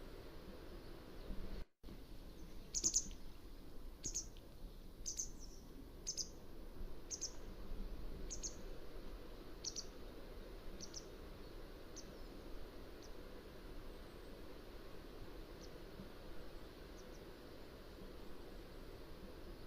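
Mountain wagtail calling: a series of short, high chirps about one a second, becoming fainter and sparser in the second half, over a steady low background hiss. A brief gap in all sound comes about two seconds in.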